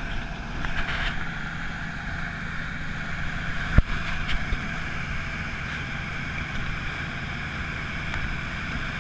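Boat engine running steadily with a rush of water and wind noise, and one sharp knock a little under four seconds in.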